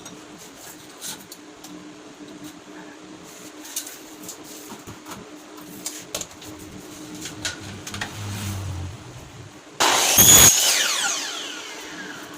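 Small clicks and knocks of handling over a steady hum. Near the end a power tool runs briefly for under a second and winds down, its whine falling in pitch.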